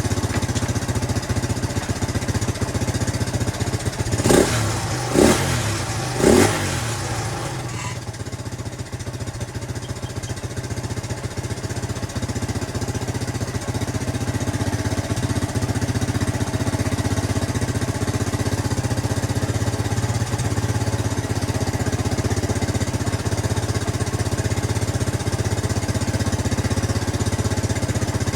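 Jianshe JS200GY 200cc air-cooled four-stroke engine idling, with the throttle blipped three times in quick succession a few seconds in before it drops back to a steady idle.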